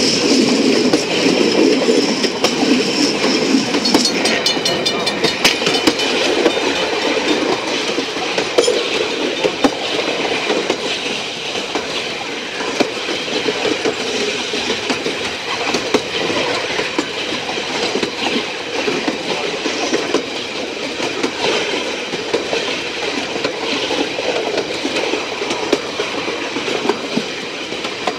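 Train running along the branch-line track, its wheels clicking steadily over the rails over a continuous rumble. About four seconds in there is a brief high chattering.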